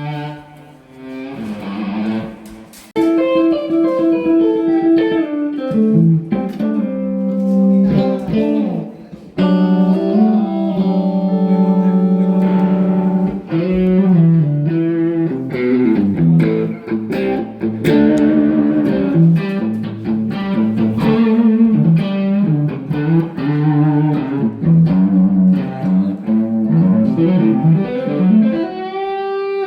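Electric guitar played through an amplifier: a melodic lead line of single notes and held notes with bends and vibrato. It starts quietly and gets much louder about three seconds in.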